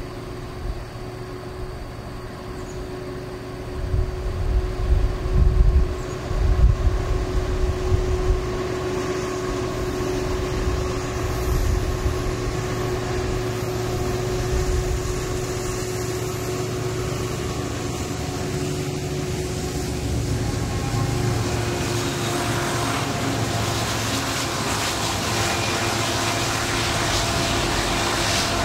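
Freight train with diesel locomotives running, a steady engine hum under a low rumble that surges a few seconds in. Over the last few seconds a hiss of train noise builds and grows louder.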